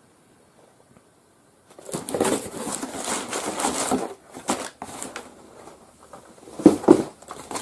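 Product packaging being handled: a crinkling rustle lasting about two seconds, then scattered clicks and a couple of louder knocks near the end as the box is set down and moved.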